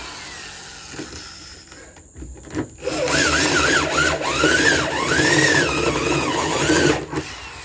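Power drill boring a hole through the wall of an old fridge, starting about three seconds in and running for about four seconds, its pitch rising and falling as the bit bites, then stopping.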